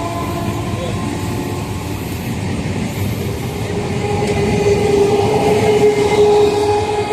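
A train running past, with a steady rumble and clatter of wheels on the rails. A held tone grows through the second half and is loudest about five to six seconds in.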